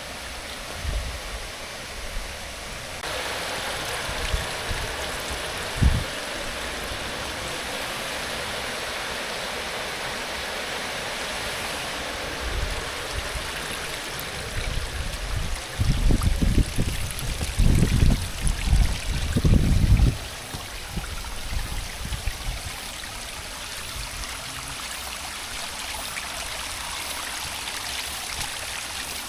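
Rainwater runoff from the hillside flowing steadily along the road, an even rushing that grows louder about three seconds in. Bouts of low rumble between about 16 and 20 seconds in.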